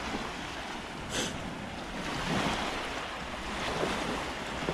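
Small Caribbean waves washing onto a sandy beach, a steady rush that swells and eases, with wind buffeting the microphone.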